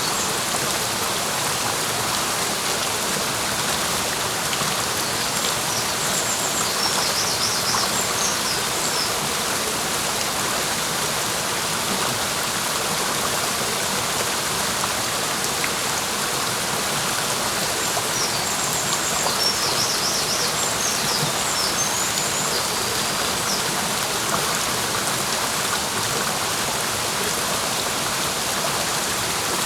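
Clear mountain stream flowing in a steady, even rush. A small bird sings quick runs of high notes twice, about six seconds in and again around nineteen seconds in.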